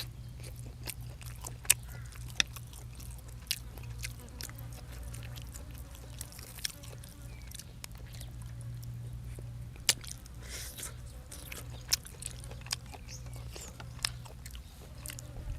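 Close-up chewing and biting of food, with a dozen or so sharp, crisp crunches scattered through, over a steady low hum.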